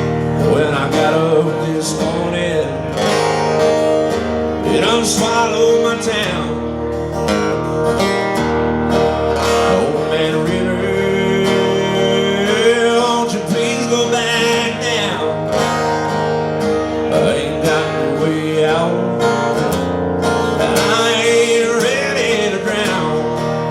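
Country song played on acoustic guitar, with a wavering melody line over the chords.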